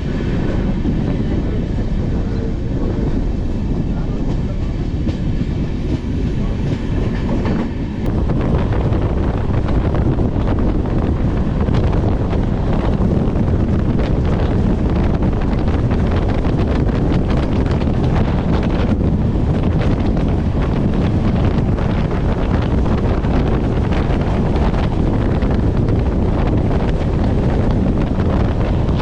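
Passenger train running at speed, heard from on board: a steady rumble of wheels on the rails with some wind. It grows louder and rougher about eight seconds in.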